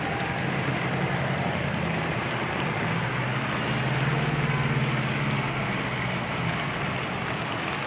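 A motor vehicle's engine hum, swelling as it passes about halfway through and then fading, over a steady rushing noise.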